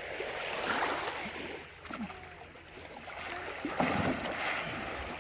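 Shallow sea water lapping and splashing, swelling louder about a second in and again about four seconds in.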